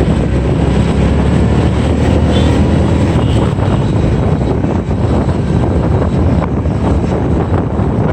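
Steady low rush of a moving motorbike: engine and road noise mixed with wind buffeting the microphone, heard from the bike itself.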